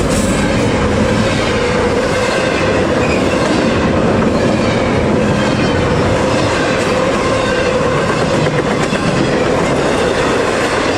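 Double-stack intermodal freight train rolling past, its steel wheels running loud and steady on the rails with a clickety-clack and a steady ringing tone.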